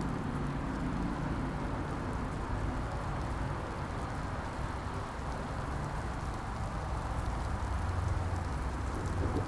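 Steady rain with the low rumble of city traffic underneath, the rumble swelling over the last couple of seconds.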